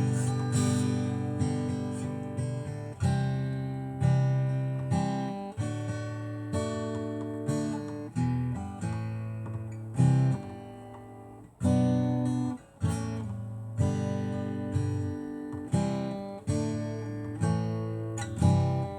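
Acoustic guitar strummed chords, one chord struck about every second and left to ring and fade, with no singing.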